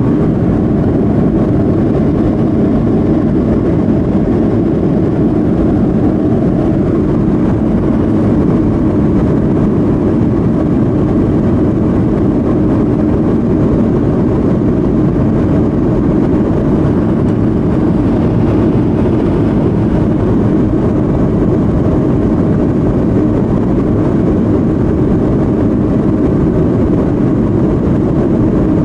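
Boeing 737-200 in flight: a steady, unchanging rumble of its Pratt & Whitney JT8D engines and the rushing air, heard from inside the cabin.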